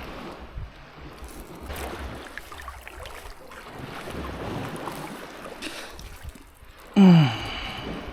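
Water sloshing and wind buffeting the microphone, with irregular small splashes. About seven seconds in comes a brief, loud sound that drops steeply in pitch.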